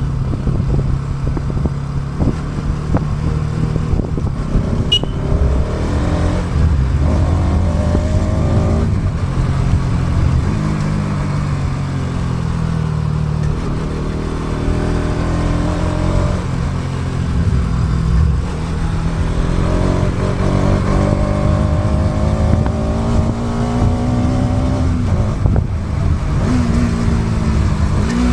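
Motorcycle engine heard while riding, its pitch repeatedly rising and falling as the rider accelerates and eases off, over a steady low rumble of road and air noise. It is picked up by the DJI Action 2's built-in microphone.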